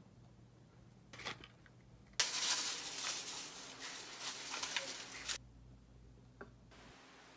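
Kitchen work sounds: a light knock, then about three seconds of noisy handling with small clicks that stops suddenly, and one more light tick near the end.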